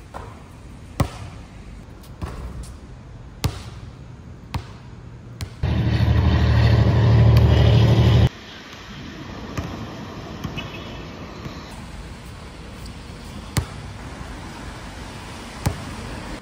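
A basketball bouncing hard on an outdoor court, single bounces every second or two, over steady storm wind and rain. In the middle, wind buffets the microphone for about three seconds, the loudest sound, cutting off suddenly.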